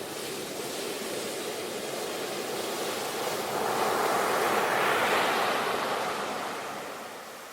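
Sea waves surging: a steady wash of surf, with one wave swelling to its loudest about five seconds in and then fading away.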